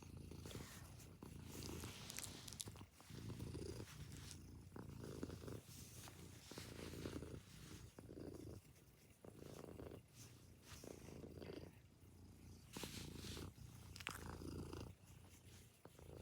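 Domestic cat purring as she sucks on the bed covers, the purr swelling and fading about every second and a half with her breathing, with faint small clicks over it.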